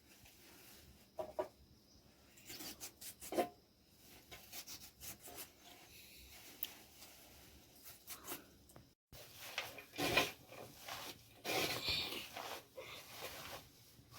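Irregular rubbing and scraping noises, short and scattered, busier after a brief break about nine seconds in.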